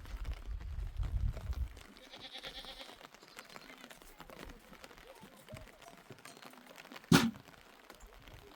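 Livestock bleating: one high, wavering bleat about two seconds in. A low rumble comes at the start, and one sharp knock about seven seconds in.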